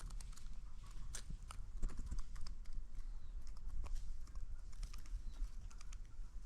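Irregular light clicks and taps, several a second, over a steady low rumble.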